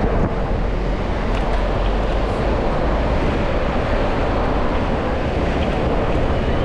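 Steady rush of wind on a chest-mounted GoPro microphone while cycling, mixed with the noise of street traffic.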